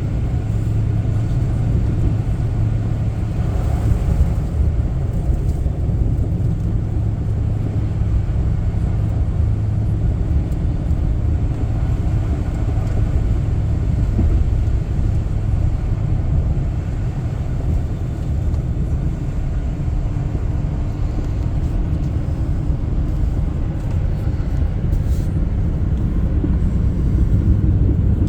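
Steady low rumble of a vehicle driving on the road, with engine and tyre noise, heard from inside the cabin.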